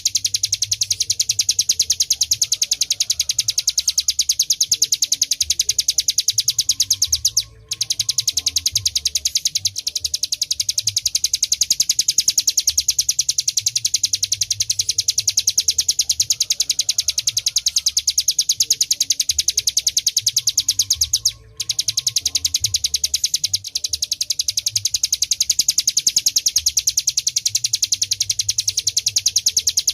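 Ciblek gunung (a prinia) singing a continuous, very fast, evenly pulsed high-pitched trill, the drill-like 'ngebren' song wanted from a bird in full voice. The trill breaks off briefly twice, about a quarter of the way in and again about two-thirds in.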